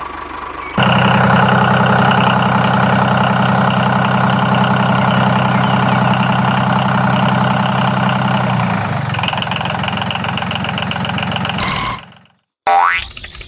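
Mini DIY tractor's small engine running steadily. It comes in abruptly about a second in and cuts off near the end, followed by a short rising tone.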